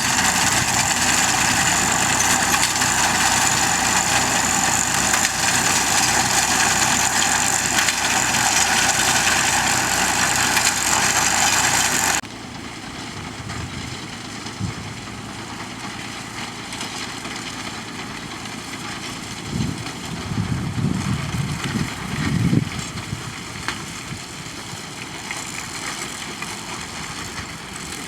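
Tractor engine running steadily with a binder working behind it, loud and even. About twelve seconds in the sound drops abruptly to a quieter, steady machine sound, with a few low rumbles later on.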